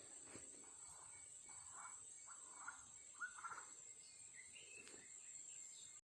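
Faint outdoor ambience: a steady high-pitched insect drone, with a few soft bird chirps and a short rising whistle in the middle.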